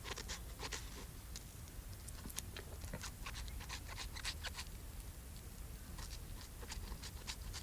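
Faint, irregular small clicks and taps of kitchen utensils working food, scattered throughout.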